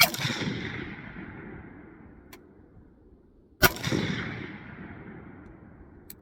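Two single rifle shots from a custom-built AR-15 fired in semi-auto, about three and a half seconds apart, each followed by a long echo that fades over about two seconds.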